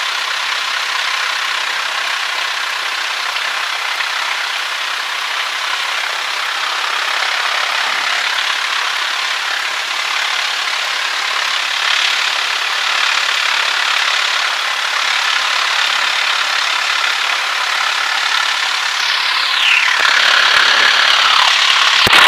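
Cessna 152's Lycoming four-cylinder engine running at low power while taxiing, heard as steady cabin drone with little bass, with a whine that falls in pitch near the end.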